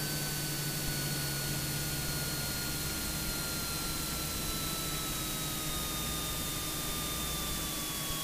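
Steady hiss of a Cessna 172's cockpit audio, with a faint whine slowly falling in pitch throughout.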